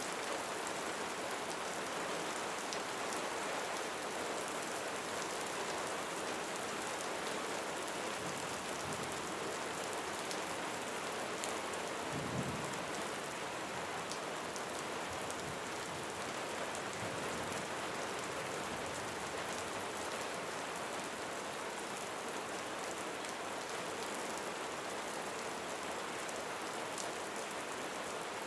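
Steady rain drumming on a roof, an even, continuous patter. About twelve seconds in there is a brief low rumble of distant thunder.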